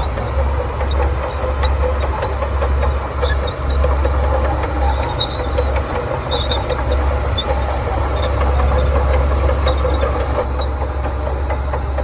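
Shantui DH17C2 bulldozer's diesel engine running steadily with a deep low rumble, with scattered short high-pitched squeaks over it.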